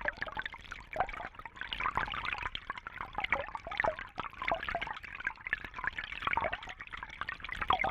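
Water in a fish tank trickling and bubbling continuously, a busy run of small gurgles and splashes with no pause.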